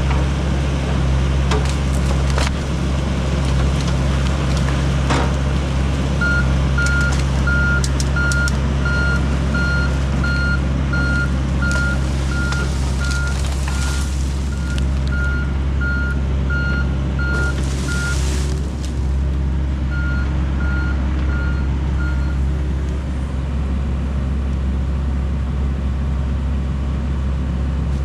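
John Deere 60G compact excavator's diesel engine running steadily, with its travel alarm beeping about twice a second for most of the middle, pausing briefly, then beeping a few more times. Occasional sharp knocks and a short hiss.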